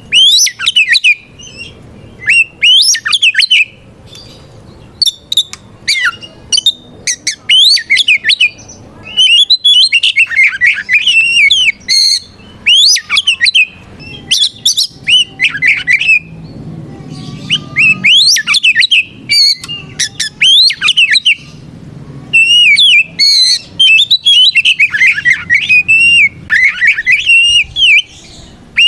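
Oriental magpie-robin singing loudly in full, open challenge song, as a bird calling out a rival does. Its song is rapid bursts of varied gliding whistles mixed with harsh, scratchy notes, a phrase every second or two with short gaps between.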